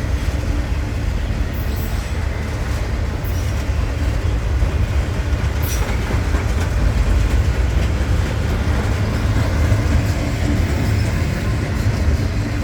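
Norfolk Southern freight train rolling past, its cars making a steady low rumble on the rails, with a few faint clicks.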